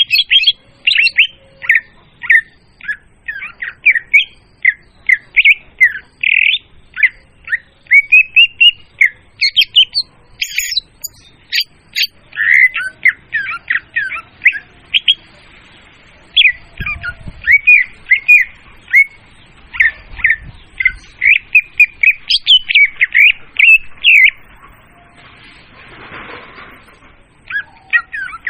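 Leafbird (murai daun) song used as a bird-trapping lure call: a rapid, unbroken string of short, varied chirps, whistles and harsh squawky notes, loud and clear. It breaks off briefly a few seconds before the end.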